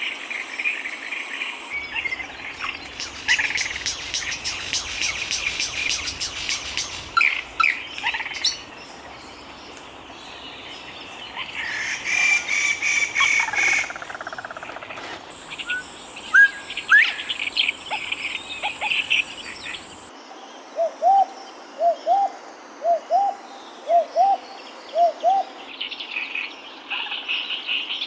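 Outdoor wildlife ambience of assorted bird calls and chirps over a steady insect drone, changing abruptly every few seconds. Later on comes a run of about eight short, lower, upward-inflected calls.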